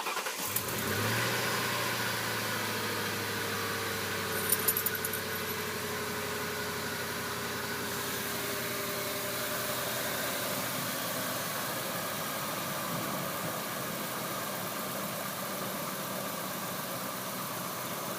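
Ford 5.4 Triton V8 just started and settling into a steady idle, with the very slight low-end tick that the owner can't place as a knock or a bearing. A few sharp clicks about four and a half seconds in.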